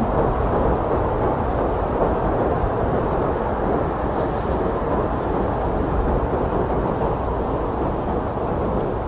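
Strong blizzard wind blowing steadily: a dense, deep rushing noise with a low rumble and no gusts or breaks.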